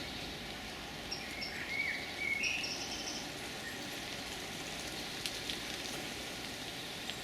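Songbirds giving short, high alarm calls several times in the first three seconds, over a steady background hiss, with a few sharp ticks later on. The calls fit alarm at a predator that has raided a nest, which is how the uploader reads them.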